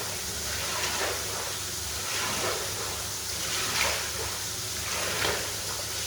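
Steady hiss of water spray washing a mud-soaked shaggy rug, with a short swish about once a second as the spray sweeps across.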